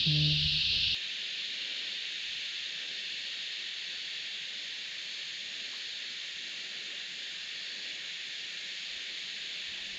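Cicada chorus: a steady, high-pitched droning hiss, called deafening and "so loud". It is louder, with a low rumble under it, for the first second, then drops suddenly to a steady lower level.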